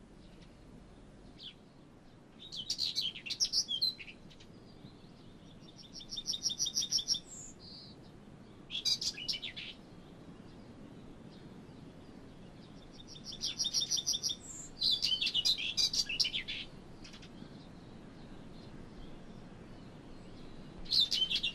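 A small songbird singing short high phrases every few seconds, several of them quick, evenly repeated trills, over a faint steady outdoor background.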